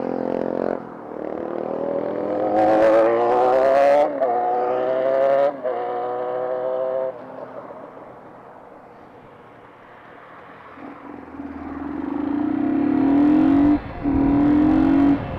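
Motorcycle engine accelerating through the gears, its pitch climbing and breaking at shifts about four and five and a half seconds in. It then eases off to a low hum and picks up again near the end.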